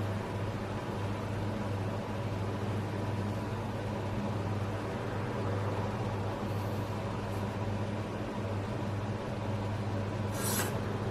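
Breville Barista Express espresso machine running with a steady low hum from its vibratory water pump, with a short hiss about ten seconds in.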